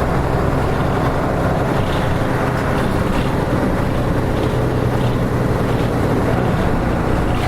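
Diesel engine of a Nissan Diesel RM-series (KK-RM252GSN) bus running steadily, with a low drone that holds its pitch throughout.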